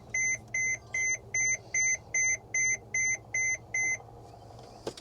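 A warning beeper in the motorhome's cab sounding a steady series of short, high, even beeps, about two and a half a second, as the key is turned before starting the engine; the beeping stops about a second before the end, followed by a click.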